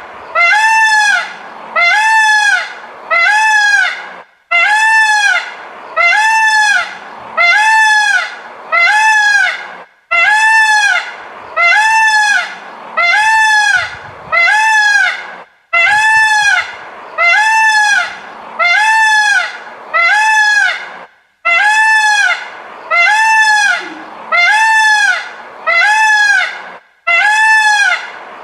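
Peacock calling over and over: loud, trumpet-like calls at about one a second, each rising then falling in pitch, in runs of four or five with short pauses between.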